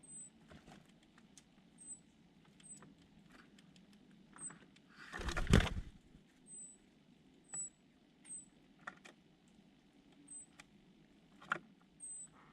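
Small birds giving short, very high, thin call notes, repeated irregularly about once a second, among scattered light clicks. A loud rustling burst comes about five seconds in.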